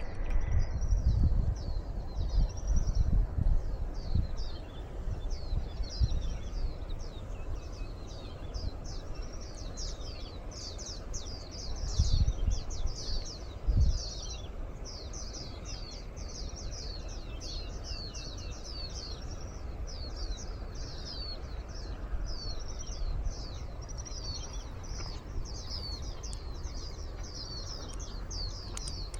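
Wild birds chirping continuously, a steady stream of quick, high, downward-sweeping notes, over wind rumbling on the microphone. The wind gusts in the first few seconds and gives two short low bumps about 12 and 14 seconds in.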